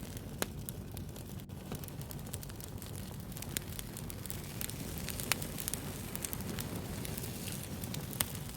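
Wood fire burning with a steady low rumble and frequent sharp crackles and pops, a few of them louder.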